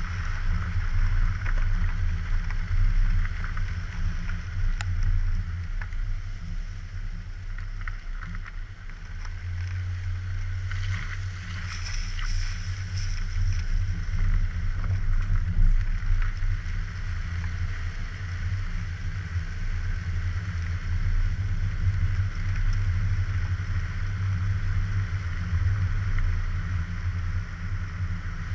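Car driving at speed, recorded by a suction-cup-mounted GoPro: a steady low rumble of engine, tyres and wind, easing briefly about a third of the way in and then building again.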